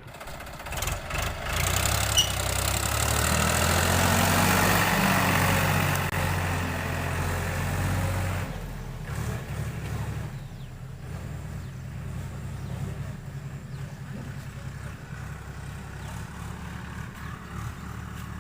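Tractor diesel engine running hard, loud for the first eight seconds or so, then dropping back to a quieter steady run.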